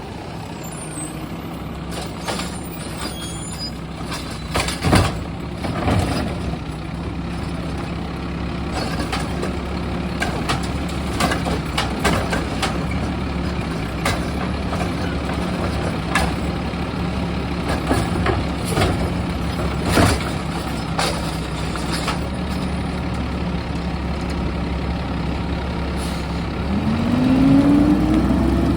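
Garbage truck engine idling, with a scattering of sharp knocks and bangs. Near the end the engine revs up with a rising whine.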